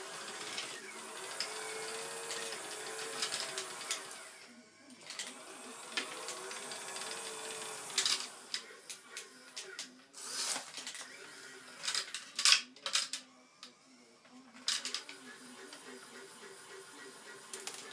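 Small electric motors of an EKG-5 scale model excavator whining, the pitch wavering up and down as it works, with scattered clicks and sharp rattles, several close together about two-thirds of the way in.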